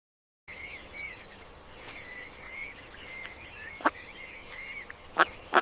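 Pond ambience: frogs calling, short high calls repeating over a steady outdoor background. Three sharp clicks come near the end.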